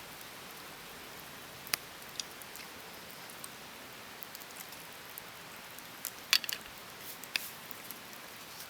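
A steady soft hiss with scattered sharp clicks and ticks: a few single ones about two seconds in and a quick cluster about six seconds in.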